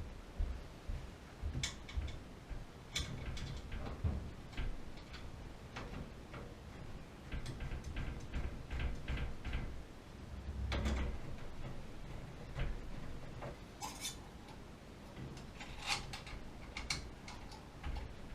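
Irregular light clicks, taps and small knocks of tools and metal parts being handled during work on a gas water heater. A louder cluster comes about eleven seconds in, and a few sharp clicks follow near the end.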